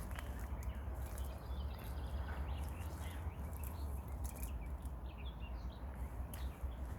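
Small songbirds chirping and twittering over and over, over a steady low rumble, with a few sharp clicks.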